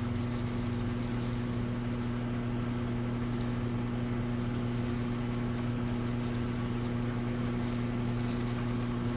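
Electrolux Essential Care 11 kg top-load washing machine running: a steady motor hum, with faint short high chirps every couple of seconds.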